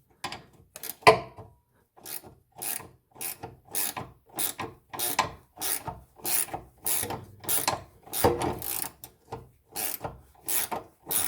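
A 17 mm wrench is worked back and forth on the bolt of a rear anti-roll bar bushing bracket, loosening it in short rasping strokes about twice a second, with a sharper clack about a second in.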